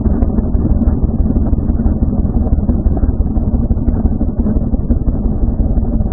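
Motorcycle engine running, a steady loud low rumble.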